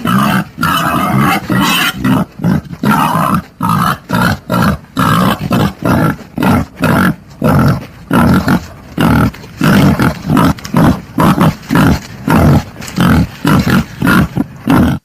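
Wild boar grunting and squealing in a rapid, loud string of short calls, about three or four a second; a recorded lure call for drawing in wild boar.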